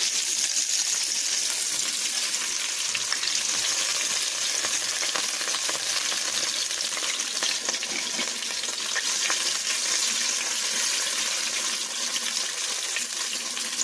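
Flour-dredged chicken liver pieces frying in olive oil in a pan: a steady sizzle with constant fine crackling.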